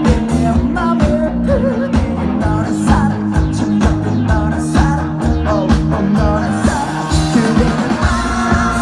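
Rock band playing live: electric guitar and bass over a steady drum beat, with a singer's voice over it. Cymbals come in louder about seven seconds in.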